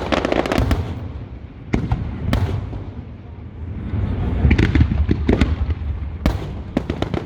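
Aerial fireworks bursting: a run of sharp booms and cracks over a low rumble, coming thicker in the second half.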